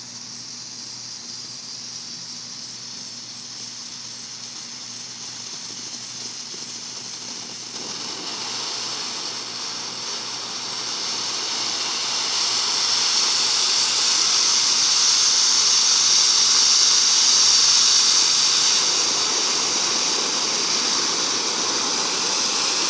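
Ground fountain firework spraying sparks: a steady rushing hiss that grows louder about eight seconds in, peaks midway, then eases a little, sounding like a plane.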